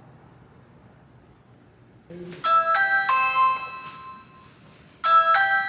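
Electronic chime playing three rising notes, sounding twice about two and a half seconds apart.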